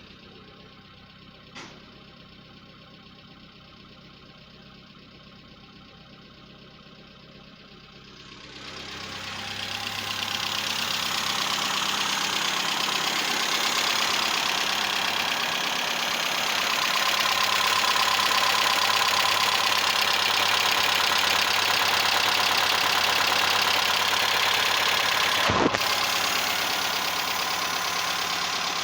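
Peugeot 305's 1.5-litre XR5A four-cylinder petrol engine running steadily. About 9 seconds in, the sound grows louder and then holds. There is a click near the start and a sharp click about 25 seconds in.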